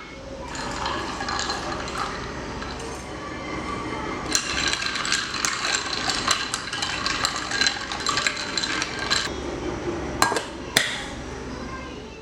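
Kitchen sounds: a steady hiss with frequent light clinks and clatter of utensils against dishes or a pan, and two sharper knocks near the end.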